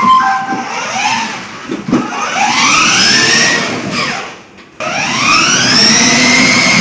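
Electronic siren of a 12V ride-on toy police car: a short electronic tone, then a wail of rising sweeps about every two seconds, cutting out briefly a little past the middle before starting again.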